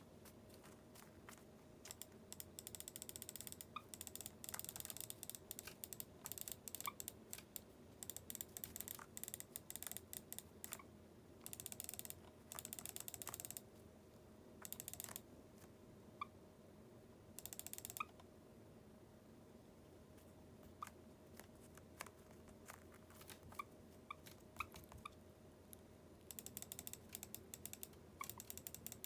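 Bursts of rapid, fine clicking that come and go for several seconds at a time, with a few faint short high peeps among them.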